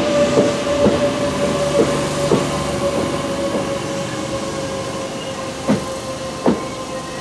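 Kintetsu limited express electric train rolling slowly into the platform and coming to a stop: wheels clack over rail joints, the clacks spacing out as it slows, over a steady whine, with two sharper clicks near the end.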